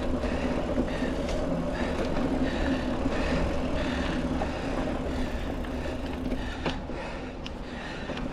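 Mountain bike rolling along a dirt trail: steady tyre and drivetrain noise with light rattling clicks from the bike, and wind rumble on the action camera's microphone.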